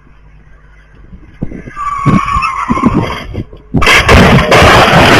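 Car tyres skidding with a brief squeal, then about four seconds in a sudden, very loud, continuing noise typical of a crash.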